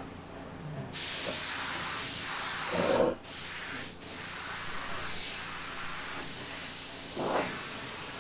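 Paint spray gun hissing as compressed air and paint are sprayed. It starts suddenly about a second in, the trigger lets off briefly twice, and the spraying continues more quietly near the end.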